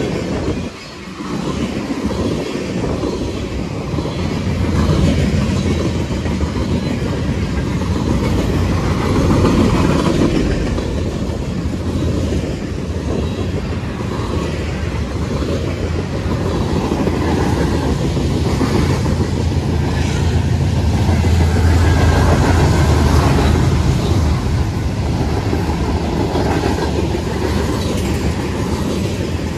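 Freight train passing close by: a steady rumble of rolling railcars with their wheels clacking over the rail joints.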